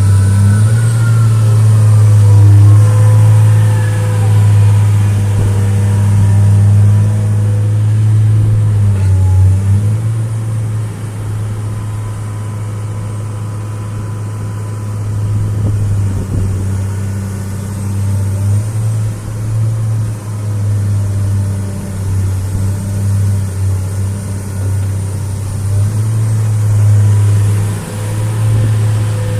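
2003 Atlas 1805 wheeled excavator's diesel engine running with a steady low hum, its level rising and dipping several times. Faint higher whining tones glide up and down in the first few seconds.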